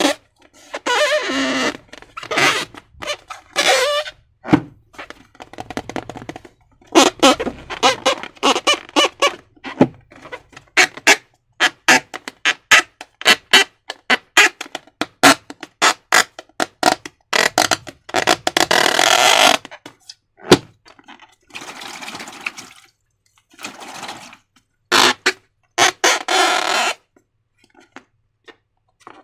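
Slime being squeezed and stretched by hand: runs of wet squelches and sticky crackles, broken by short pauses.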